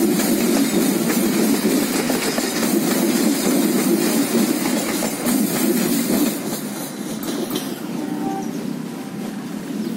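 Passenger coaches of a train rolling past close by, wheels running and clattering over the rails. The sound drops off sharply about six seconds in as the last coach passes, then fades as the train moves away.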